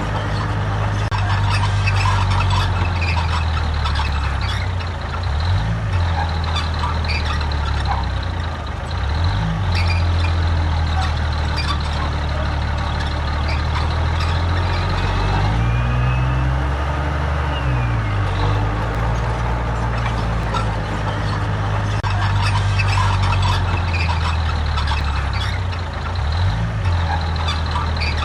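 Heavy diesel earthmoving machinery working: a deep engine runs steadily, its pitch dipping and rising again a little past halfway, with rattling and clanking throughout.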